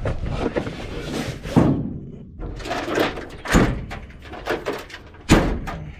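Metal tool-box doors on a service truck being opened and shut, with clattering and several sharp bangs; the loudest bang comes about five seconds in.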